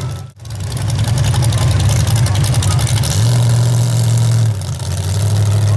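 Small-block V8 engine of a modified 4x4 pulling truck running loud, with a brief cut-out just after the start and a held, steady rev from about three seconds in to about four and a half seconds.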